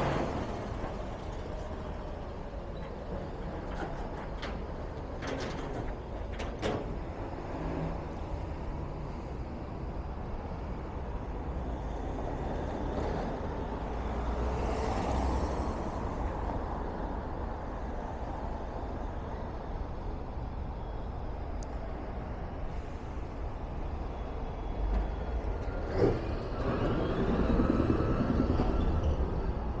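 Road traffic passing close by, cars and heavier vehicles, over a steady low rumble of wind buffeting the microphone; a louder vehicle goes past near the end.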